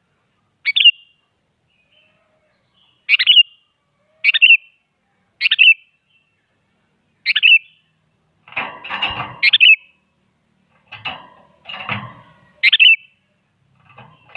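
Sooty-headed bulbul giving short, sharp calls one to two seconds apart, with harsher, rasping bursts mixed in during the second half.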